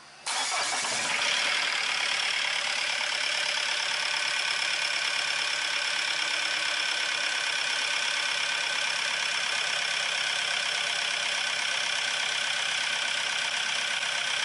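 Diesel engine with a rotary injection pump running steadily, being tested after its pump timing was adjusted to soften a harsh engine noise. The sound comes in abruptly about a third of a second in.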